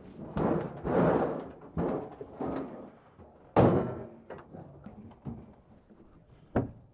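A run of thuds and knocks as a truck-bed toolbox is unbolted and shifted. The loudest knock comes about three and a half seconds in, and a short, sharp one comes near the end.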